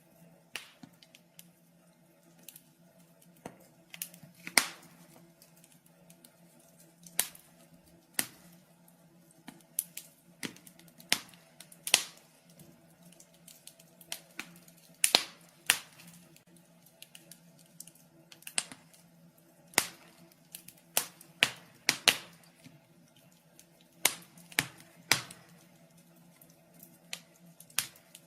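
Wood fire crackling in a fireplace: irregular sharp pops and snaps, a few every second, over a faint steady hum.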